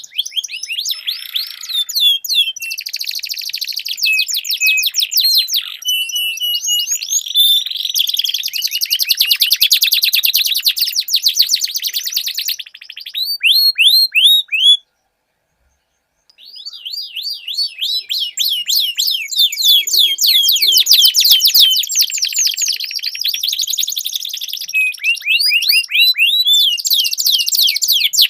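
Domestic canary singing long, fast rolling trills of rapidly repeated high notes, the song cut off completely for about a second and a half halfway through before resuming.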